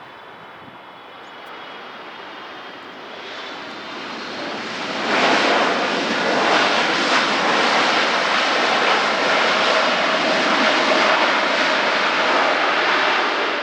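A jet airliner's engines roaring as it passes close, with a faint high whine in the roar. The sound builds over the first few seconds, stays loud, then cuts off suddenly near the end.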